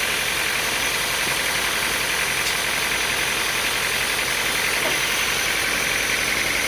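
Sawmill machinery running steadily: an engine or motor drone with a high hum, level and unchanging throughout.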